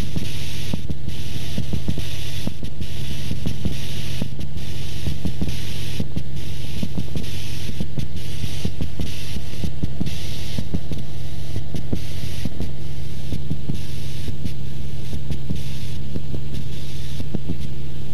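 Cessna 172's engine and propeller droning steadily, heard inside the cockpit. A higher hiss above the drone cuts in and out every second or so.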